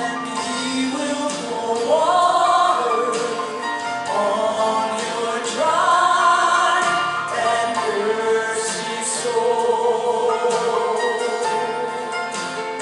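Worship music: voices singing a slow song with instrumental accompaniment.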